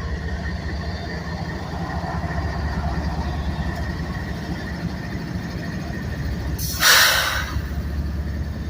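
Diesel freight locomotives rumbling steadily as they roll slowly past. A short, loud burst of air hiss comes about seven seconds in, from the air brakes.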